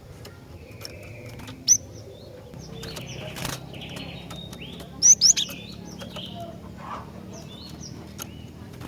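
Female cinereous tit (glatik batu) calling: short, sharp, high chirps and rising notes. The loudest pair come close together about five seconds in, after a single loud one near two seconds. Softer calls and ticks fall between them.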